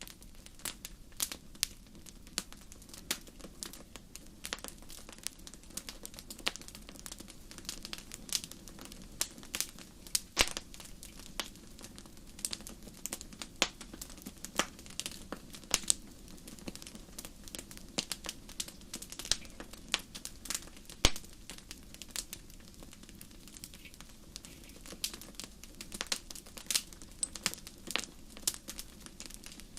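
Wood fire crackling, with sharp, irregular pops and snaps several times a second over a steady low rush of the flames.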